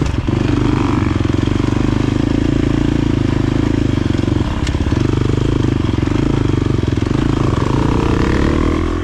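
KTM enduro dirt bike engine running steadily, with a short dip and a single sharp click about halfway through.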